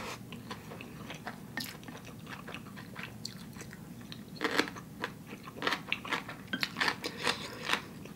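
A person chewing a mouthful of spicy instant fire noodles: wet mouth clicks and smacks. A louder cluster comes about four and a half seconds in, and a run of them near the end.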